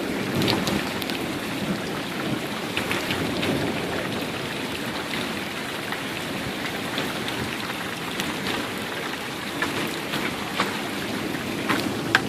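Steady rain at the tail of a hailstorm, with scattered sharp ticks of impacts.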